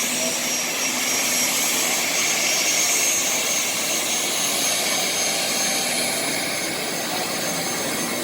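Business jet's turbofan engines running, a steady rushing roar with a thin high whine held on one pitch.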